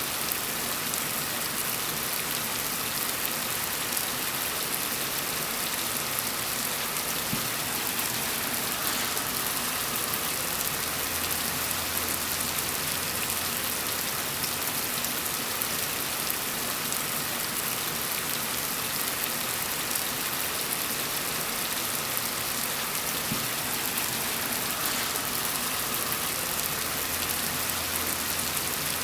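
Gentle rain falling steadily on a surface, an even, unbroken hiss of many drops.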